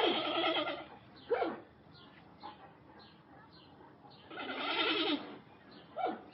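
Animal calls: a long pitched call at the start and another about four and a half seconds in, short falling cries around a second in and near the end, and faint high chirps in between.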